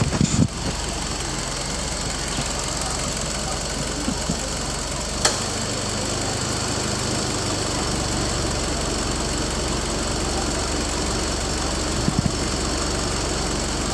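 Mitsubishi Lancer Evolution X GSR's 4B11 turbocharged 2.0-litre inline-four idling steadily. A few thumps come at the start and again near the end, with one sharp click about five seconds in.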